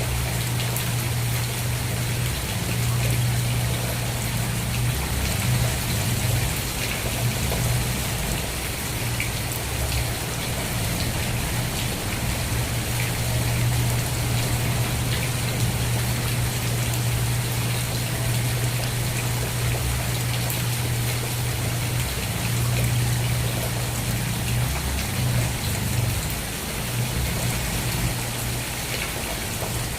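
Steady rain falling and pattering on surfaces, with a constant low hum underneath.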